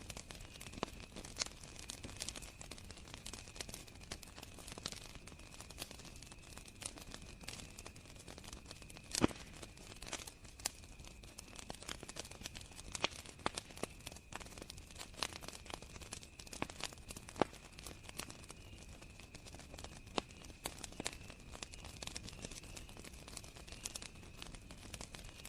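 Wood fire crackling, with irregular sharp pops and one louder pop about nine seconds in, over a steady high-pitched cricket chorus.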